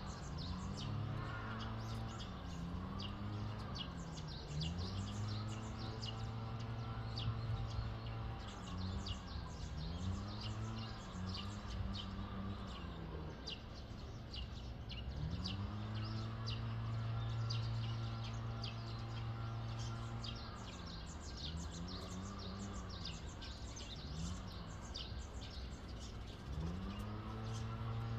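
Small birds chirping busily over a low droning tone that rises, holds and falls again about ten times, with a steady low hum underneath.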